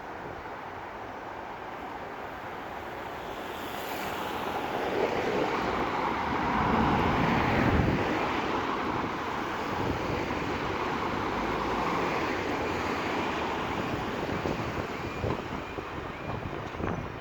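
Road traffic passing on a busy road, with vehicles swelling up and going by, loudest about seven to eight seconds in.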